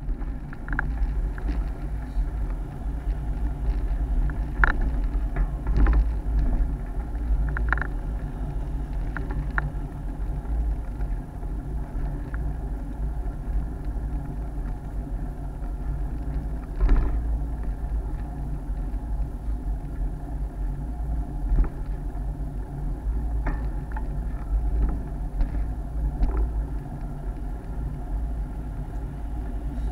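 Steady low rumble of wind and road vibration picked up by an action camera on a moving road bike, with occasional sharp knocks and rattles from bumps in the road.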